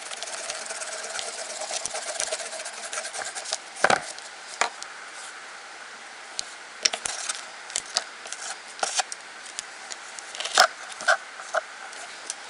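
Nail-art tools being handled close up: light scraping and rubbing with scattered sharp clicks and taps, the loudest taps about four seconds in and again near eleven seconds.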